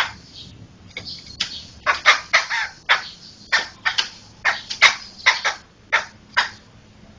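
Poksay (laughingthrush) calling in a rapid series of short, harsh, chattering notes, about two a second, with no long pauses.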